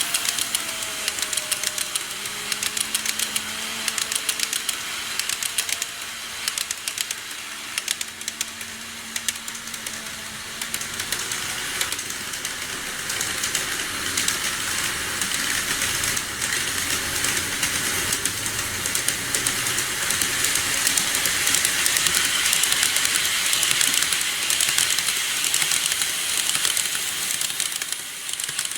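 KATO model train running along the track: rapid, uneven clicking of wheels over the rail joints over a steady hiss. A faint motor whine with a slightly wavering pitch is heard for the first several seconds, and the running sound grows gradually louder later on.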